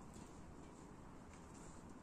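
Near silence: faint background hiss with a couple of soft ticks.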